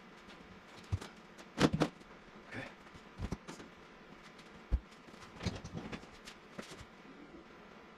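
Irregular knocks, clicks and clatter from hand tools and metal seat hardware being worked inside a car, with a cluster of loud knocks about a second and a half in and single thumps around the middle.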